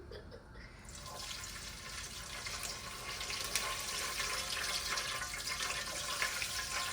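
Water running from a kitchen tap, a steady splashing hiss that starts about a second in.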